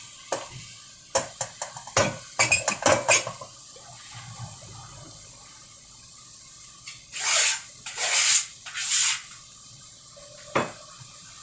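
Clinks and knocks of kitchen dishes and utensils in the first few seconds, then three short rushes of noise about seven to nine seconds in, with a single knock near the end.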